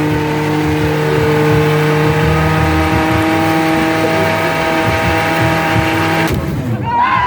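Car engine held at high, steady revs during a tyre burnout, over a rushing haze of noise. It cuts off abruptly about six seconds in, and the crowd starts shouting and cheering.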